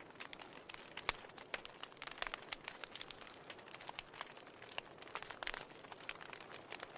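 Wood fire burning in a fireplace, crackling steadily with many irregular small pops and a few sharper snaps over a soft hiss.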